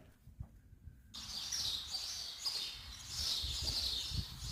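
Silence for about a second, then a steady chorus of small birds chirping, high-pitched and fairly faint, over a low rumble.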